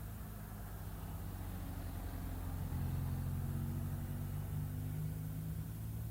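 Motorcycle engine running steadily at a low pitch, growing louder about halfway through.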